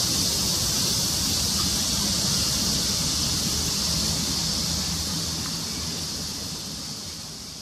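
Two cats purring together, a low pulsing rumble, under a louder steady high-pitched hiss; everything fades out over the last couple of seconds.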